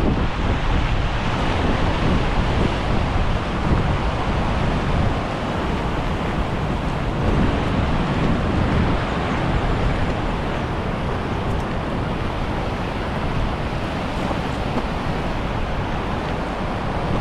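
River Tees rushing steadily over rocky drops, mixed with wind buffeting the microphone.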